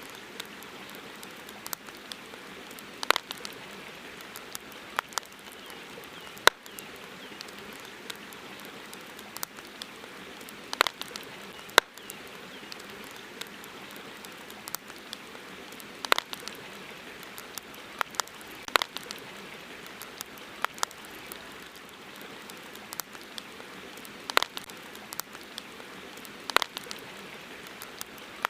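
Wood campfire crackling: irregular sharp pops and snaps, one every second or two, over a steady hiss.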